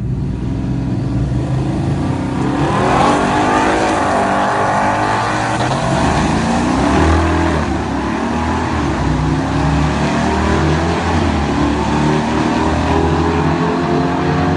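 Custom-built twin-turbo 5.3-litre V8 in a GM truck, held at a low steady rumble and then launching hard about three seconds in. The engine note climbs steeply under full throttle and drops back several times as it shifts up through the gears.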